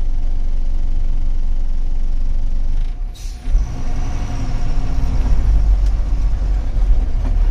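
Truck's diesel engine running under way with a steady low rumble; about three seconds in it drops off briefly with a short hiss of air, then comes back louder.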